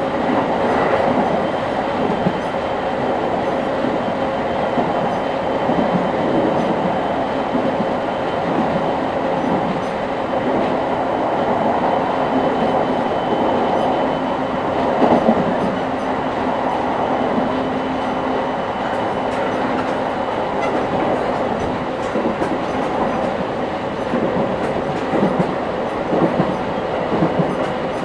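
Running noise inside a JR East 701-5500 series electric train travelling between stations: a steady rumble of wheels on rail with faint steady tones from the drive. A few louder clacks come over rail joints about halfway through and near the end.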